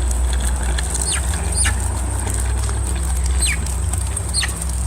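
Chicken peeping: four short, high peeps, each falling in pitch, over a steady low rumble.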